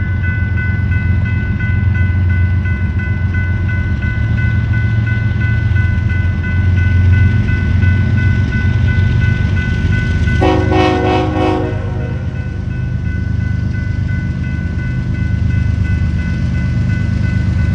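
A train rumbling through a grade crossing while the crossing bells ring steadily. The locomotive sounds one short horn blast, a bit over a second long, about ten seconds in.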